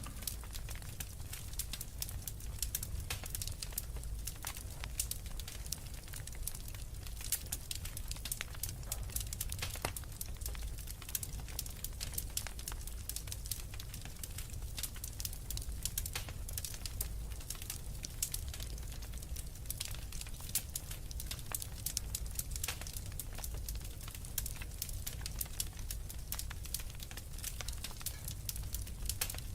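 Wood fire of burning logs crackling steadily, with many small irregular pops and snaps over a low, constant rumble of the flames.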